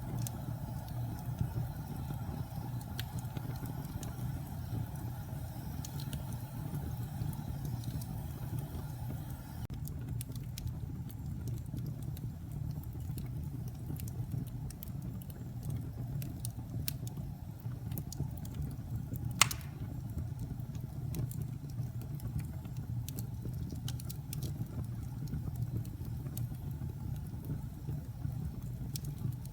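Wood fire burning in a fireplace: a steady low rumble of flames with scattered small crackles and one sharp pop about two-thirds of the way through.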